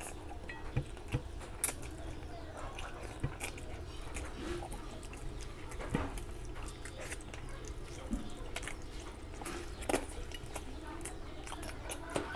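Close-miked eating sounds: wet chewing and lip smacks of curry and rice, with many short sharp clicks scattered throughout.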